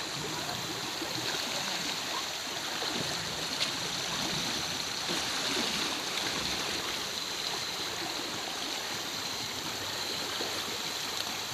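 River water flowing steadily in a current, a continuous rushing wash.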